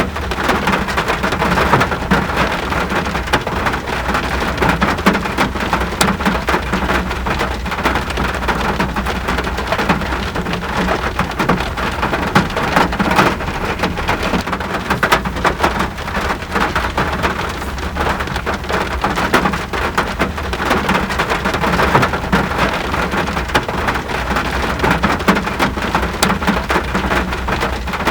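Steady rain falling on surfaces, with many fine drop patters over a constant low rumble.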